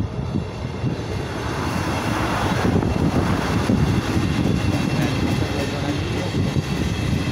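A train hauled by an FS E.464 electric locomotive passing close by: a steady rushing and rumbling of wheels and traction equipment that grows louder from about a second in and stays loud.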